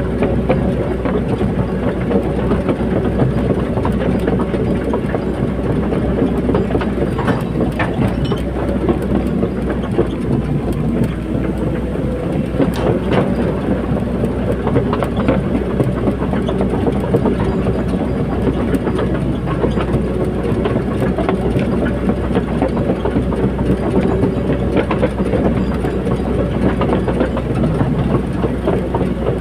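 Caterpillar 320D hydraulic excavator working: its diesel engine runs steadily under a continuous clatter of metal on metal from the machine.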